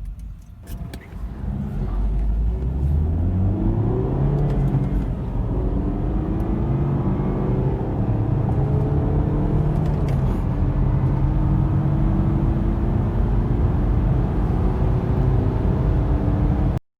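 Car engine accelerating hard from a standstill through a 0-100 km/h run, its pitch climbing as it pulls through the gears. It cuts off abruptly near the end.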